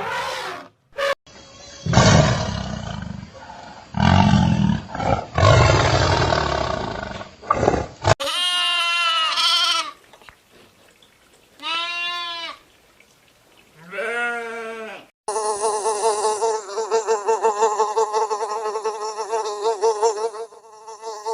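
A string of separate animal calls, cut one after another. It opens with three loud, rough, noisy cries, then three single calls that rise and fall in pitch, then a long quavering call near the end.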